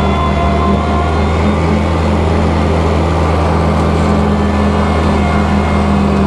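Kubota tractor's diesel engine running steadily while bush hogging with a rotary cutter.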